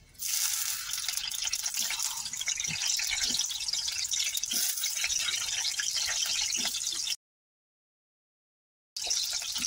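Potato pieces sizzling as they fry in hot oil in a metal kadhai, a steady crackling hiss. About seven seconds in the sound cuts out completely for about two seconds, then the sizzling picks up again.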